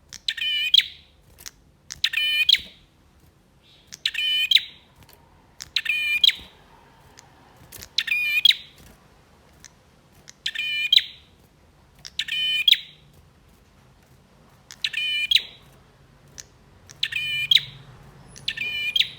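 Male prinia (prenjak) singing: short bursts of rapid, repeated high chattering notes, one burst about every two seconds.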